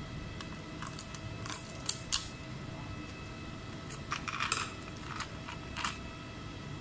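Small hard clicks and light metallic taps, about eight scattered irregularly with a quick cluster a little past the middle, typical of small tools being handled on a laptop repair bench, over a steady faint electrical hum.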